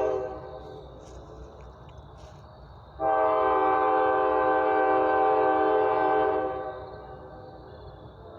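Diesel locomotive air horn sounding a chord: the end of a short blast, then a long blast about three seconds in that lasts some three and a half seconds before fading.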